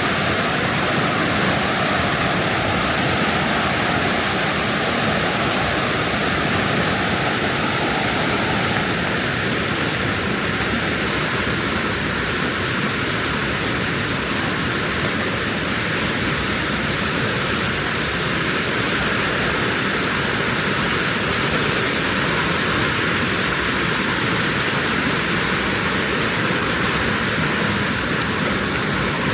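Loud, steady rush of white water, unbroken throughout.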